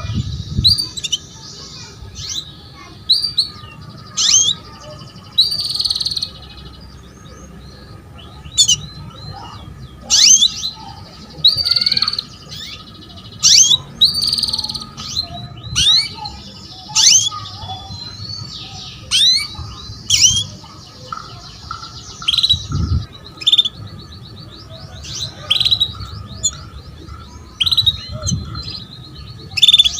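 Female canary calling: repeated short, sharply rising chirps and brief trills, one every second or so. This is the call of a hen in breeding condition drawing a male into song.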